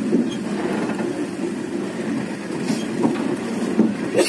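Walahar Express passenger coach running on the rails, heard from inside the car as it pulls out of Tambun station: a steady rumble of wheels on track with a few short knocks.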